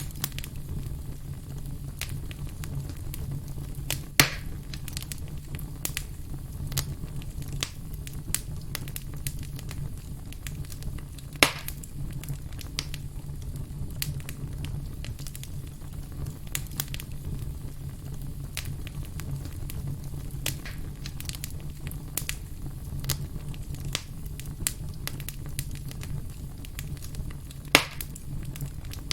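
Campfire crackling steadily with many small clicks over a low, steady rumble. Three louder sharp pops stand out: about four seconds in, about eleven seconds in, and near the end.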